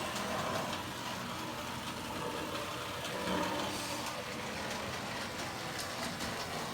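Marx 666 O-scale electric toy locomotive running around the track: a steady motor whir and the rolling of wheels on metal rail, with a few faint clicks.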